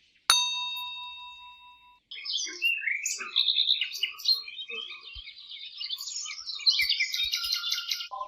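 A bell-like ding rings and fades away over about a second and a half. Then a small songbird starts chirping and twittering rapidly in quick, high trills.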